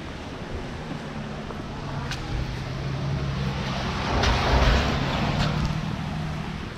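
A vehicle engine running steadily under a rushing noise, swelling louder about four seconds in, with a few faint clicks.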